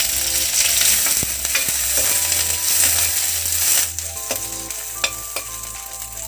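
Sliced onions, cumin seeds and green chilli slices sizzling in hot oil in a stainless-steel kadai while being stirred, with a few light clicks of the spoon against the pan. The sizzle is loud at first and quietens about four seconds in.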